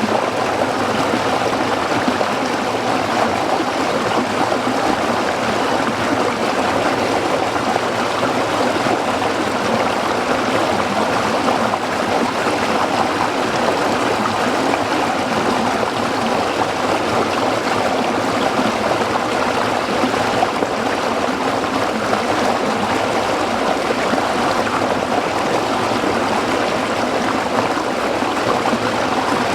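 A small stream flowing and splashing over rocks, a steady, even babble of running water.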